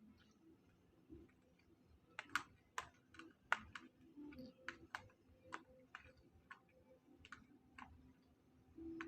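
Faint eating sounds: a string of irregular, soft clicks and taps spread over several seconds, with a low hum that grows louder near the end.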